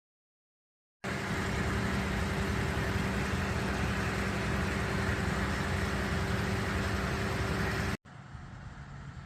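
A vehicle engine running steadily with an even hum, starting suddenly about a second in and dropping abruptly to a quieter steady engine sound near the end.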